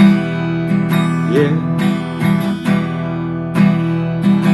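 Acoustic guitar strumming chords, with a short sung "yeah" about a second in.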